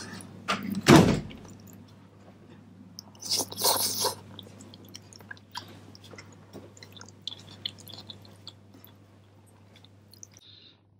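Close-up chewing of soft fried starch jelly (chao liangfen) eaten from a spoon, with small wet mouth clicks. There is a low thump about a second in and a short noisy burst around three to four seconds in.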